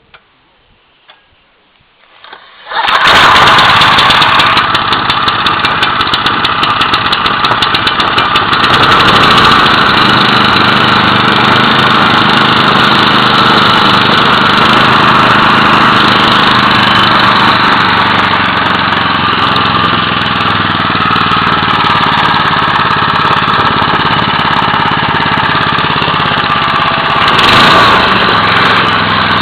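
Briggs and Stratton 5 hp Industrial Plus single-cylinder petrol engine on a log splitter pump starting suddenly about three seconds in, then running steadily. A brief swell in the running comes near the end.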